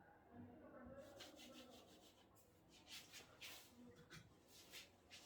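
Faint scratching of handwriting: a series of short writing strokes as a calculation is written out, starting about a second in.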